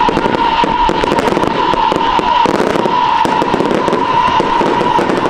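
Fireworks going off continuously: dense crackling and popping, with a steady high tone running through that breaks off briefly a few times.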